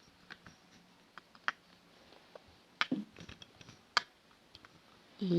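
Light, scattered clicks and taps of wooden toy train cars and track pieces being handled, with a sharper click about four seconds in.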